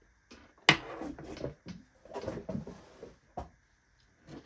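Handling noise of a tire inflator hose and plastic jump starter parts being moved and set down: a sharp knock under a second in, shuffling and rustling, and another knock about three-quarters of the way through.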